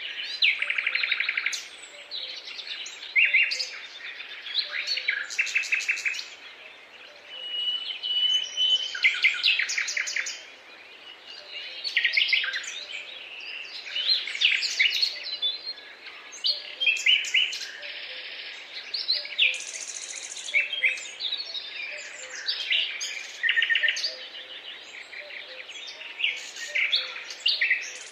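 Several songbirds singing at once in a dawn chorus, overlapping trills, chirps and whistled phrases, with a faint steady hiss behind them.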